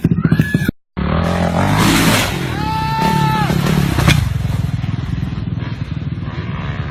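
Motorcycle engine running, broken by a brief silent gap about a second in. About three seconds in, a short pitched tone rises and falls over the engine.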